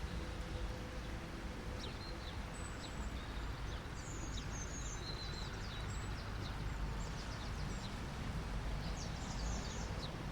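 Steady wash of ocean surf, with small birds chirping in quick high calls from about two seconds in and again near the end.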